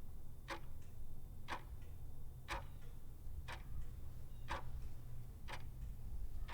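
Regular ticking, one sharp tick about every second, like a clock, over a steady low rumble.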